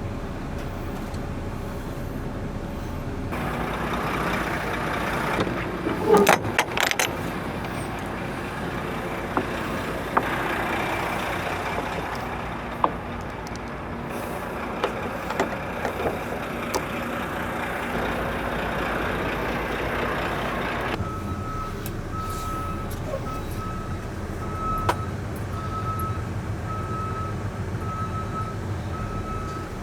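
Semi truck running with a steady rushing noise and a few sharp clicks, then about two-thirds of the way through its backup alarm starts beeping steadily, about once a second, as the truck reverses toward a trailer.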